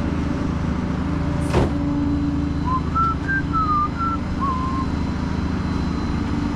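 Truck engine and road noise heard from inside the cab while driving, a steady low hum. There is a sharp click about a second and a half in, and a short run of high chirps in the middle.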